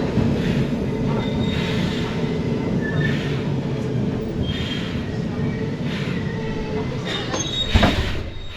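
Antique tram running on its rails, heard from on board: a steady low rumble of wheels and motors with faint thin wheel squeals, and a loud clunk near the end.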